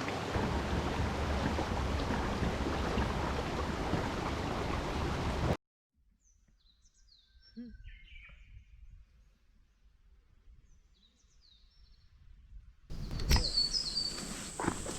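Mountain stream rushing steadily, cut off suddenly about five and a half seconds in. Then near silence with a few faint bird calls, and near the end a knock followed by birds chirping over a steady high hiss.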